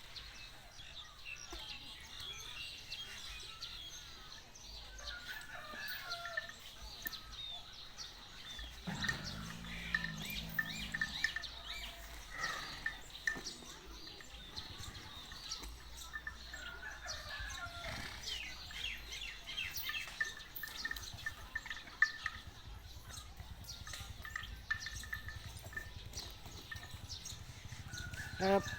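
Birds chirping and calling, with chicken calls among them; a short low-pitched call sounds about nine seconds in.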